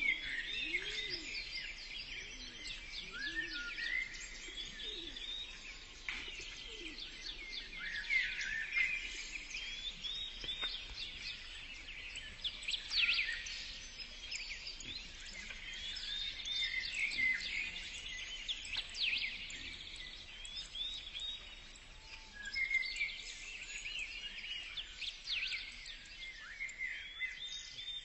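Several birds chirping continuously, with many quick, overlapping calls.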